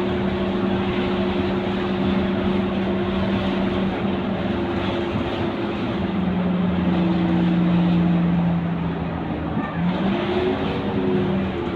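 Scania K230UB city bus's nine-litre five-cylinder diesel engine running under way, its drone holding a steady pitch, sinking slowly, then dipping and climbing again about ten seconds in as the bus pulls away or shifts gear.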